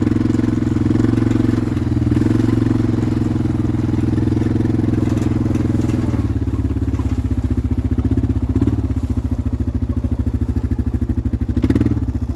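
Vehicle engine running steadily while driving, with a fast even pulse; its note drops about six seconds in, with two brief louder swells later.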